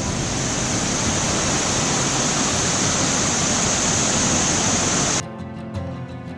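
Waterfall of about 100 feet, falling water making a steady, loud rushing noise. It cuts off suddenly about five seconds in, giving way to background music with guitar.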